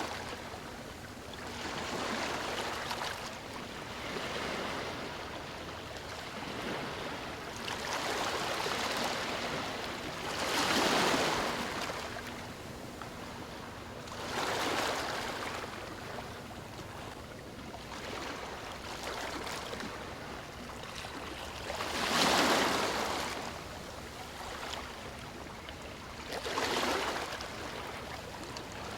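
Gentle ocean waves lapping on a shore, each one swelling up and washing back every few seconds over a steady background wash of water.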